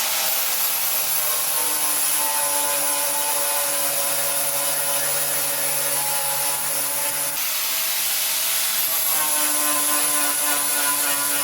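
Angle grinder running steadily under load, stripping paint and filler off a classic Mini's steel door skin, with a high whine over the grinding noise.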